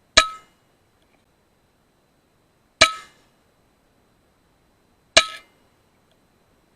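An FX Impact M3 .22 PCP air rifle firing three sharp shots, a little over two seconds apart. Each shot has a brief metallic ring.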